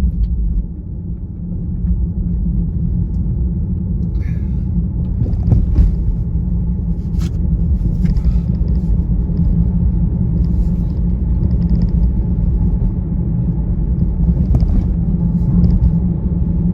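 Steady low road and tyre rumble inside the cabin of a Tesla Model Y electric car. It dips briefly about a second in, then builds back up as the car moves off, with a few faint ticks and rattles over it.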